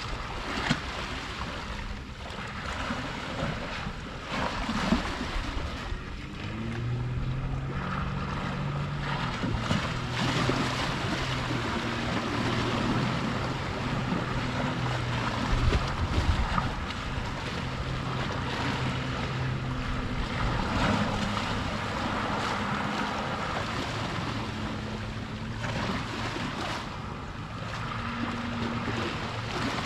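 Sea waves washing, with some wind on the microphone. From about seven seconds in, a boat engine drones low and steady, its pitch shifting a little now and then.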